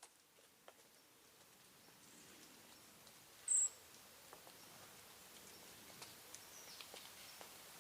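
Faint outdoor bird sounds: one short, high-pitched bird call about three and a half seconds in, a faint falling chirp later on, and scattered small clicks and ticks over a soft background hiss.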